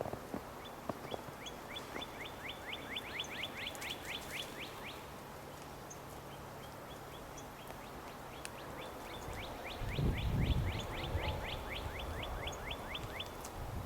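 A small songbird singing two runs of quick repeated falling notes, about four or five a second, each run lasting several seconds. A low rumble comes up about ten seconds in.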